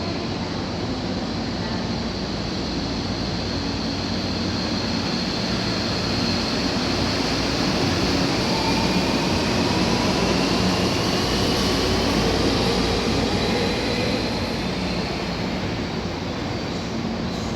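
Tobu 500 series electric train pulling out and accelerating, its running noise steady, with a faint whine that rises in pitch partway through.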